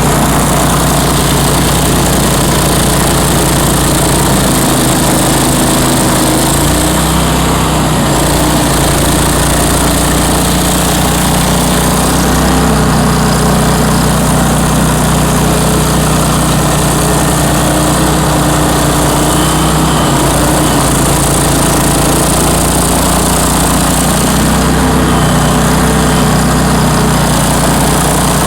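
Engine of a Bandit ZT1844 stump grinder running steadily, its pitch shifting slightly now and then.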